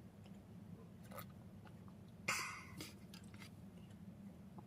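Quiet small-room eating and handling sounds: a few faint clicks and one short swish about two seconds in, over a low steady hum.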